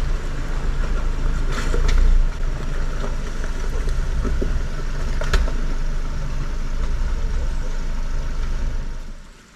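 4x4 SUV engine running at low speed on a rough trail, with a few sharp knocks about one and a half, two and five seconds in. The sound drops away shortly before the end.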